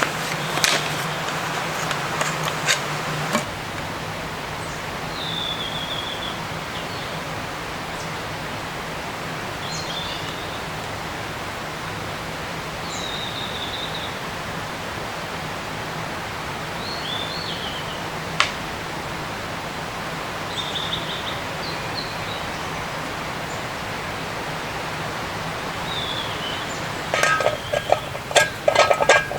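Forest ambience: a steady rushing hiss with a small bird giving a short, falling chirp about every four seconds. A few clicks sound in the first three seconds, and a run of clinks and knocks starts near the end.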